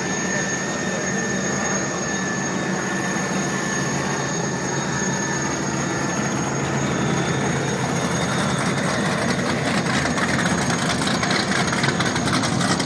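Turbine engines of a 50 ft Statement racing catamaran running steadily at low power: an even engine rumble with a thin, high, steady whine over it, getting a little louder and rougher over the last few seconds.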